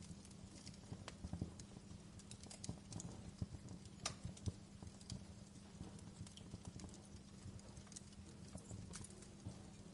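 Fire in a fireplace crackling softly: irregular small snaps and pops, a few sharper ones, over a low steady rumble.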